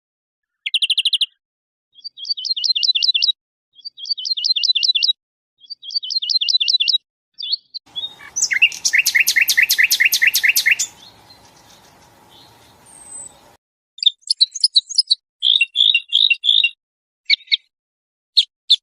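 Recorded songbird song: a series of short, rapid trilled phrases with silent gaps between them. About eight seconds in comes one longer, louder trill over a background hiss, then a run of varied quick chirps.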